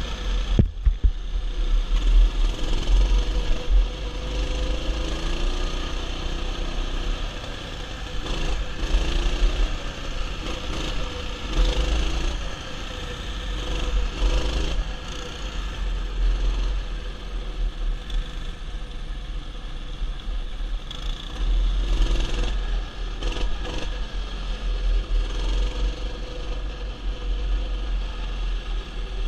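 Mini bike engine running steadily during a ride, over a heavy low rumble.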